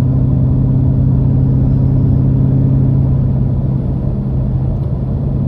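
Exhaust drone inside the cabin of a 2013 Jeep Grand Cherokee with the 5.7 Hemi V8, which has Cherry Bomb mufflers in place of the factory suitcase muffler and the resonator deleted. It is a steady low hum while cruising, easing slightly for a moment near the end.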